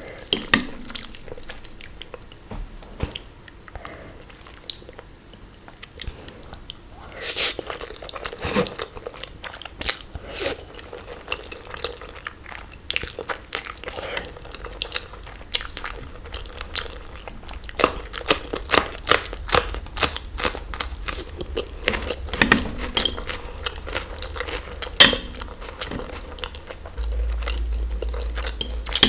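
Close-miked chewing and biting of food, with crisp crunches. The crunches come now and then at first, then in a quick run of several a second later on.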